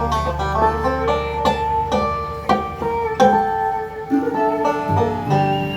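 Bluegrass band playing an instrumental live, with a five-string banjo picking a fast run of notes over other plucked string instruments.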